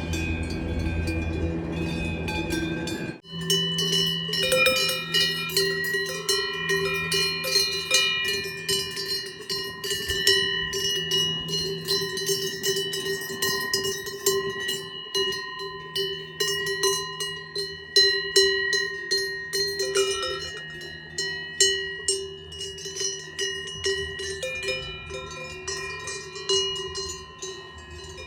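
A low rumble cuts off sharply about three seconds in. After it, Swiss cowbells on grazing cattle clank irregularly, many bells ringing at once and overlapping.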